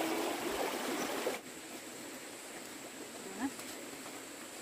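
Steady rushing-water noise, like a stream, that cuts off abruptly about a second and a half in, leaving quieter outdoor background with one short rising voice sound a little later.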